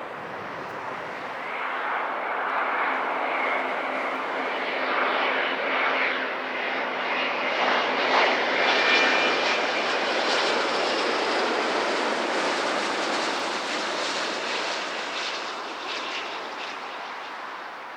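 Airliner's engines as it passes: the noise builds, peaks about halfway through with a high whine on top, then fades toward the end.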